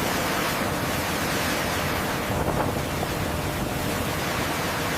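Steady rushing noise of wind and water, with no distinct events.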